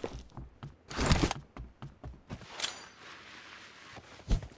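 Scattered video-game gunshots and impacts, irregularly spaced. The loudest comes about a second in, several fainter ones follow, and a strong one lands near the end.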